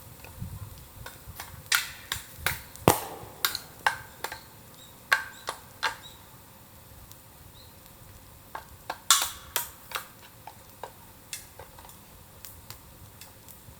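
Bamboo burning in a bonfire, crackling with irregular sharp pops and a few louder cracks spread throughout.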